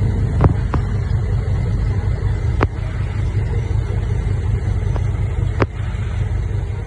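Heavy diesel engine of earthmoving machinery running steadily with a low drone, with four short sharp knocks scattered through it.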